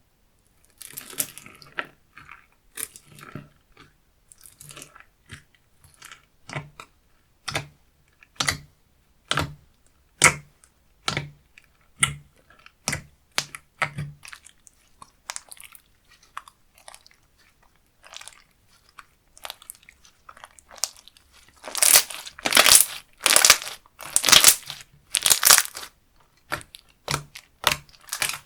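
Slime being handled: a run of short sharp clicks and pops about once a second, then a few louder, longer crackling squishes near the end.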